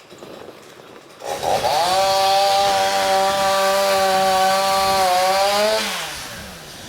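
Chainsaw revved up about a second in, held at full throttle for about four seconds, then let back down to idle near the end.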